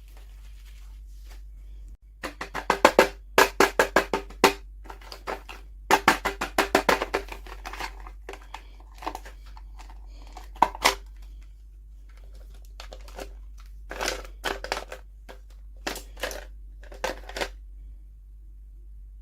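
Handling of hard plastic toy packaging: quick runs of sharp clicking taps, in several bursts with pauses between.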